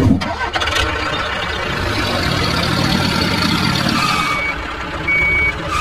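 A vehicle engine running steadily, with two short high beeps near the end.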